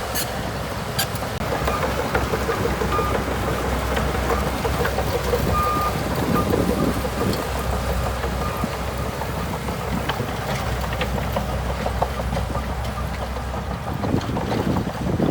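Shantui DH17C2 crawler bulldozer's diesel engine running steadily as the machine works, with a few sharp clicks and two brief squeaks.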